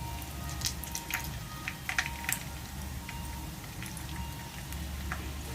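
Breaded chicken rolls deep-frying in hot oil: scattered pops and crackles over a low steady hum.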